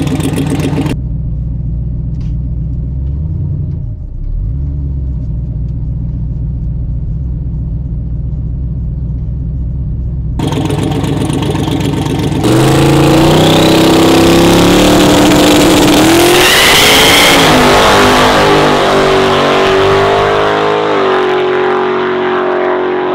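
Turbocharged LS V8 street truck rumbling low, then launching about twelve seconds in: the engine goes to full throttle, its pitch climbing, dropping back and climbing again as it pulls through the gears. The crew afterwards says the tyres spun on the launch.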